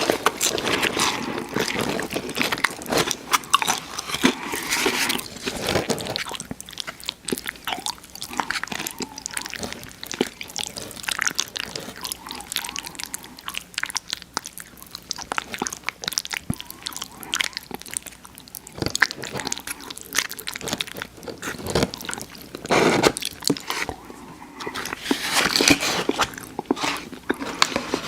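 Close-miked eating: crunchy bites and chewing of crispy fried food, a dense run of crackles and wet mouth clicks, louder in a few stretches.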